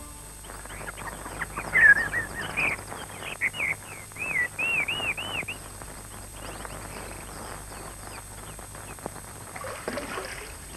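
Birds chirping and calling, with a run of arching, repeated whistled notes about four to six seconds in, over a steady low hum.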